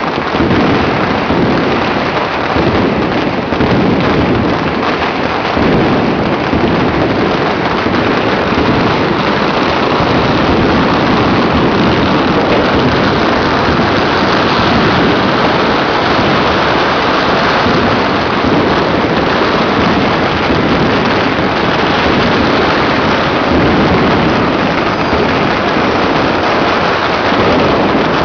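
Dense, continuous crackling and popping of many firecrackers and fireworks going off at once, merging into one steady, loud din with no pauses.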